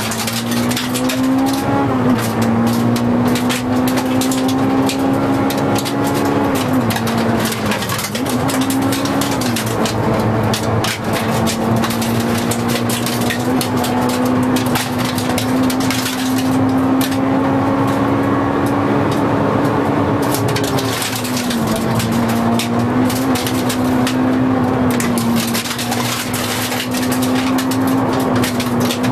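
Honda Integra Type R's four-cylinder engine heard from inside the cabin, held at high revs at a steady pitch under hard driving, with its note dropping and climbing back twice, about a third of the way in and again about two-thirds in. Road and tyre noise with a light crackle lies underneath.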